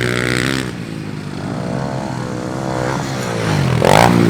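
Small pit-bike engines revving, their pitch climbing and dropping as the throttle is worked, with a short loud burst about four seconds in.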